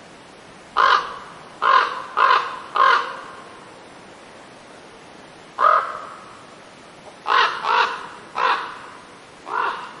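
A bird giving short, loud, harsh calls, about nine in all: four in quick succession, a single one, then four more. Each call trails off briefly, over a steady faint hiss.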